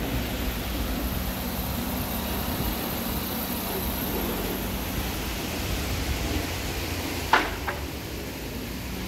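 Toyota Yaris 1.0's VVT-i four-cylinder petrol engine idling steadily, heard with the bonnet open. A sharp click about seven seconds in, followed by a fainter one.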